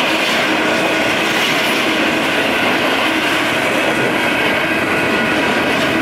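Union Pacific double-stack intermodal train's container well cars rolling past at speed: a loud, steady rush of steel wheels on the rails, with several steady tones running through it.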